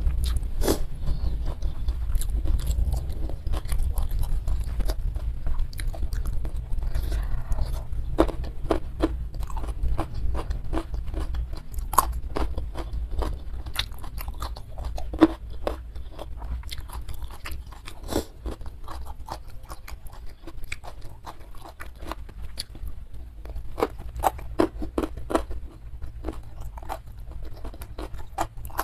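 Close-miked chewing and biting, with frequent sharp crunches: a person eating crispy smashed fried chicken and raw young jengkol. It runs over a steady low rumble.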